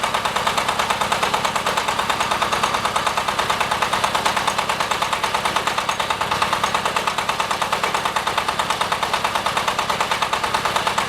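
Diesel engine of an AKL-150Y hydraulic water-well drilling rig running steadily, with an even, quick beat of about five or six pulses a second.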